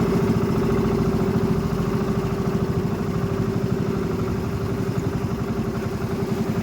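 A small engine running steadily at an even speed, with a fast, regular pulsing beat.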